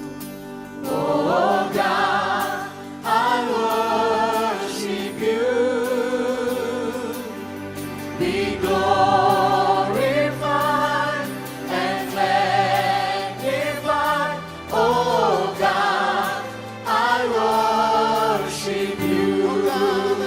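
Christian worship song: singers holding long notes with vibrato over instrumental accompaniment, with a bass line that gets stronger partway through.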